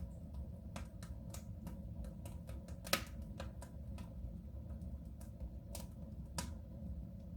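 Wood fire crackling in a soapstone stove: irregular sharp snaps and pops over a low steady rumble, the loudest snap about three seconds in.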